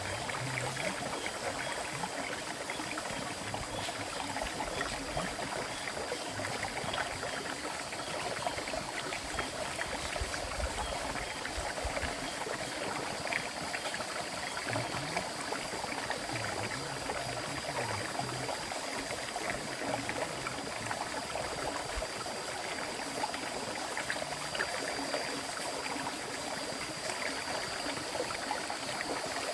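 River water flowing steadily over its bed, an even rushing with fine splashing, joined by a faint steady high tone.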